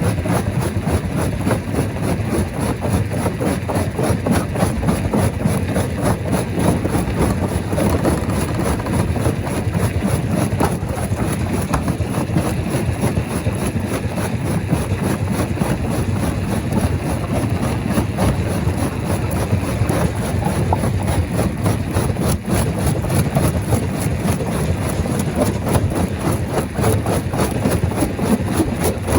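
Rock crusher running, a steady heavy mechanical din with a dense, rapid clatter of stone being broken.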